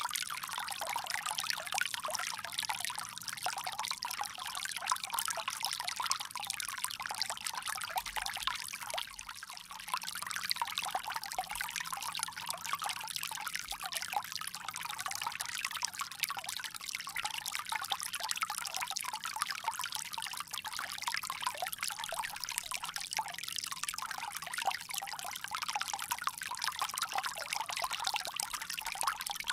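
Water pouring and trickling steadily from a bamboo spout, a continuous splashing stream with a brief lull about a third of the way in.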